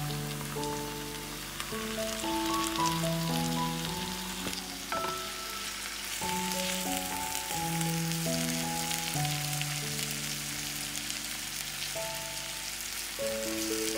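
Diced tomatoes and sliced onions sizzling in hot oil in a nonstick frying pan while a silicone spatula stirs them, with small crackles in a steady hiss. Background music of slow held notes plays underneath.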